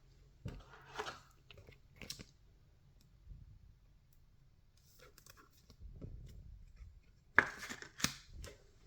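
Trading card packs and cards being handled: scattered short rustles and crinkles, with two sharp snapping sounds about seven and a half and eight seconds in.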